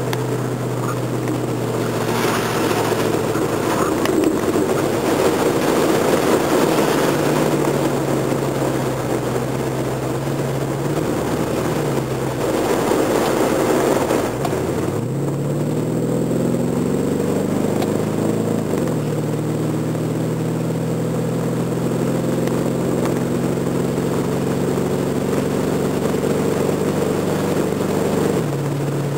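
Car engine running while driving through floodwater. There is a rushing wash of water noise over the first half that cuts off about halfway. The engine note climbs about halfway through, falls back a few seconds later, and then holds steady.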